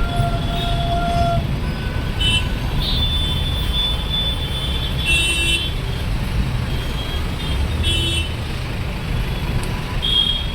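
Road traffic rumbling steadily, with vehicle horns honking repeatedly at several different pitches.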